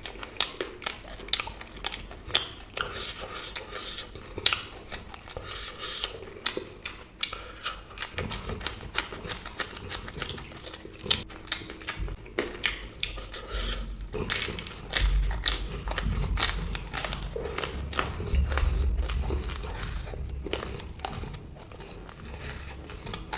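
Close-miked eating: repeated crisp bites and chewing of samosa and green chillies, with light clinks of utensils or a plate. A low rumble joins under the bites from about eight seconds in.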